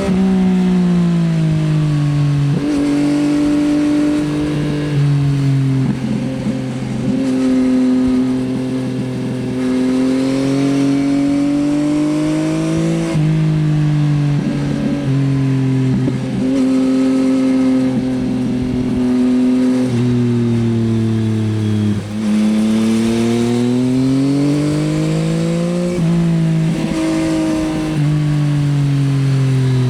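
Yamaha XSR900's inline-triple engine running through an Akrapovič Racing Line exhaust while the bike is ridden. The engine note climbs and falls in pitch, with several sudden steps up or down from gear changes.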